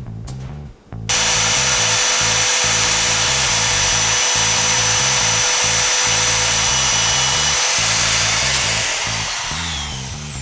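A power tool starts suddenly, runs at a steady speed for about seven seconds, then winds down with a falling whine, over background music with a steady bass beat.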